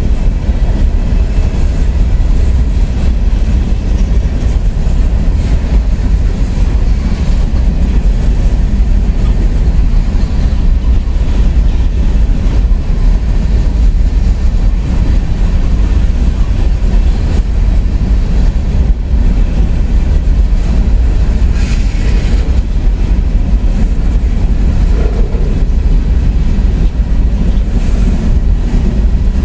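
CSX freight train of open-top hopper cars rolling past, a steady heavy rumble of steel wheels on rail with some clickety-clack over the joints.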